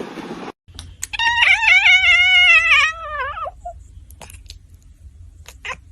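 An animal's loud, high, wavering call lasting about two seconds, dipping in pitch at the end, over a low steady hum.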